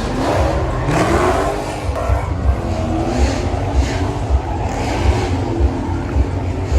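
Car engine revving: its pitch climbs in the first second, then rises and falls over a heavy, pulsing low rumble.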